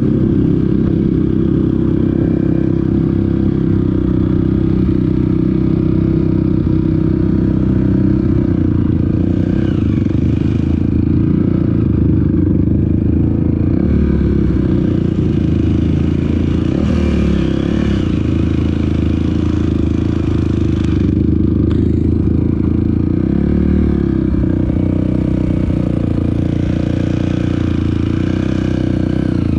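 Off-road vehicle engine running steadily while riding a dirt trail, with clattering and rattling mixed in.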